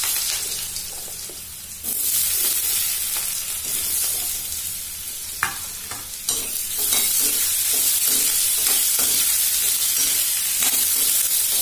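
Potato pieces sizzling as they fry in hot mustard oil in an aluminium kadai. From about six seconds in, a metal spoon scrapes and clinks against the pan again and again as the potatoes are stirred.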